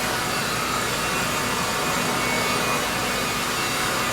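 Oreck AV-701B cordless stick vacuum running steadily, its motor and beater brush swiped back and forth over carpet to pick up synthetic pet hair.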